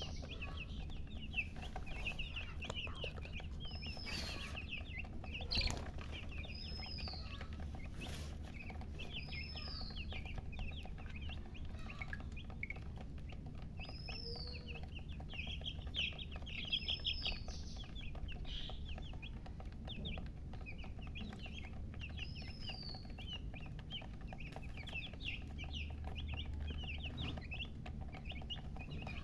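Chicks peeping continuously in many quick, high notes, with a louder peep that rises then falls every couple of seconds, over a steady low hum. A few brief knocks sound in the first third.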